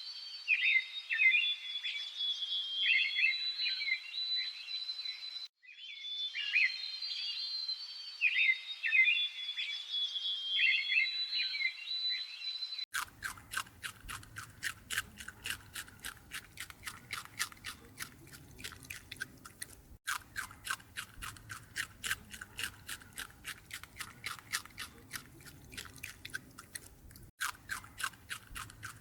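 High-pitched chirping calls from an animal, repeated over and over, for the first half; then, from about halfway, an animal chewing with rapid, crunchy bites, several a second.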